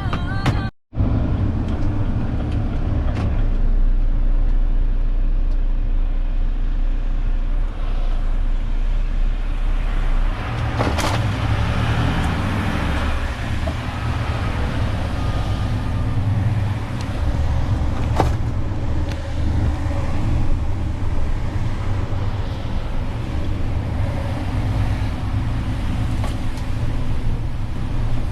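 Renault truck's diesel engine running steadily while driving, with road noise, and a sharp click or knock twice along the way. The sound cuts out briefly just under a second in.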